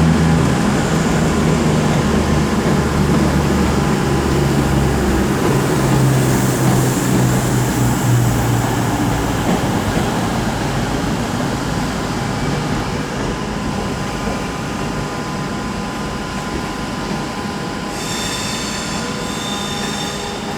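CrossCountry Class 221 Super Voyager diesel multiple unit running into the platform, its underfloor diesel engines giving a steady low drone that fades over the second half. A high-pitched squeal comes in near the end.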